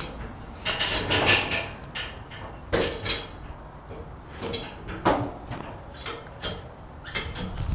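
Irregular clattering and knocking of hard objects, with several louder bangs scattered through.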